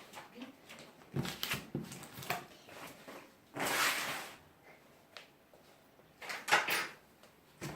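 Handling noises: scattered clicks and knocks, with two louder scraping, rustling bursts, the first in the middle and the second near the end.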